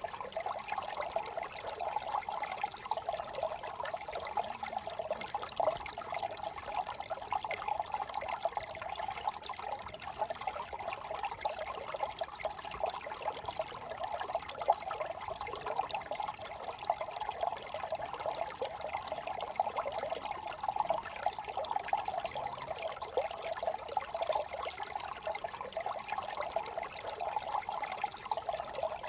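Brook running and trickling, a steady babble of water.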